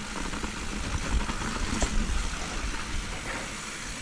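Mountain bike rolling down a dirt trail: a steady rush of wind on the microphone and tyre rumble, with a few small clicks and rattles.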